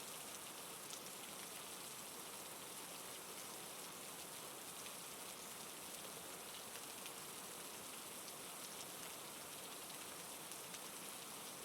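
Steady, soft rain falling, an even patter of drops.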